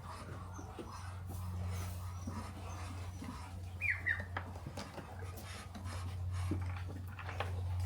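Animal sounds, with short high falling chirps about four seconds in, over a steady low hum.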